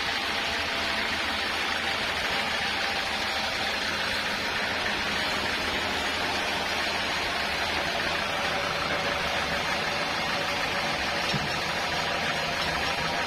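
Sawmill machinery running steadily: a constant hiss-like noise over a faint, even engine hum.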